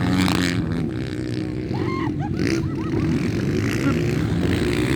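Small 125–160 cc motocross bikes racing, their engines running hard and shifting in pitch as they accelerate and back off.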